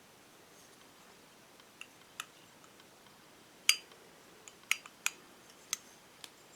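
Light clicks and clinks of small hard objects being handled, about seven in all at uneven intervals, the loudest nearly four seconds in.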